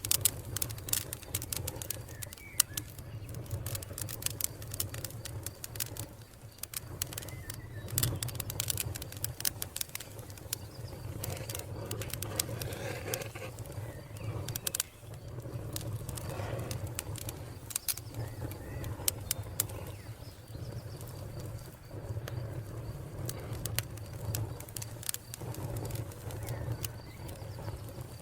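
Wood fire crackling and popping, with a constant run of sharp snaps over a low steady rumble of flame. A faint steady high chirring of crickets runs underneath.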